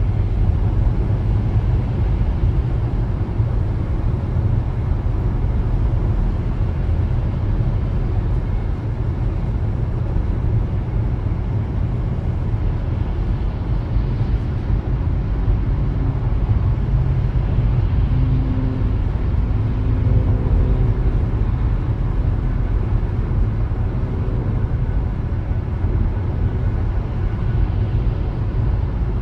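Car driving along at a steady pace: a continuous low rumble of engine and tyre noise, with a faint tone coming and going about halfway through.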